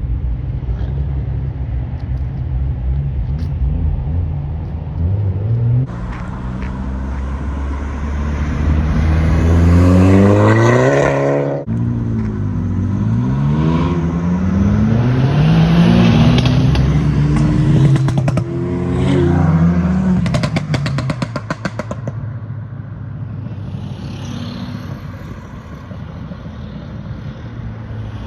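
Modified car engines idling, then revved hard several times, the pitch climbing and falling. One rev cuts off suddenly about eleven seconds in, and a rapid run of crackles comes from the exhaust later on. The engines then settle back to a quieter running level.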